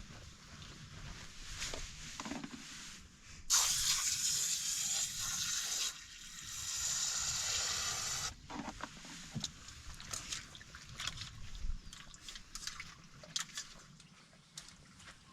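Water running or pouring in two spells of about two and a half seconds each, starting about three and a half seconds in, with scattered small clicks and knocks of handling before and after.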